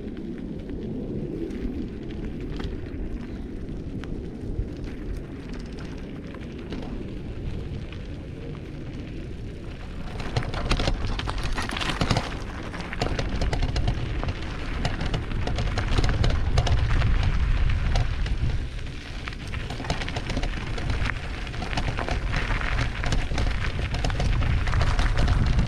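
A mountain bike rattling and knocking over a rough, rocky trail, with wind rumbling on the microphone. It gets louder and rougher about ten seconds in, with many sharp knocks.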